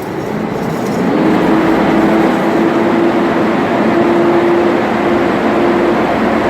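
Loud, steady mechanical running noise with a constant hum, swelling over the first second and then holding.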